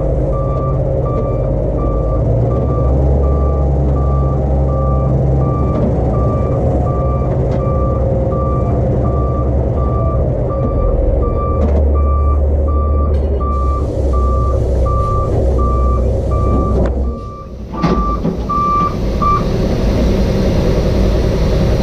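A backup alarm on heavy diesel equipment beeps steadily, about one and a half beeps a second, and stops near the end. Under it, a big diesel engine runs with a low rumble.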